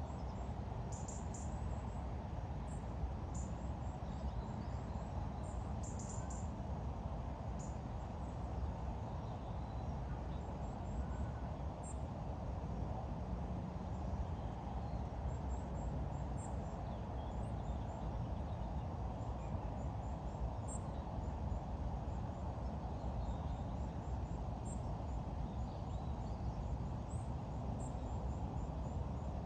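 Steady low outdoor background noise with faint, high-pitched bird chirps scattered throughout, some in short quick runs.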